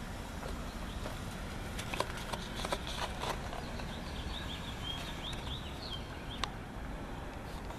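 Outdoor ambience with a steady low rumble, a few sharp clicks around two to three seconds in, and a small bird chirping a quick run of short high notes in the middle.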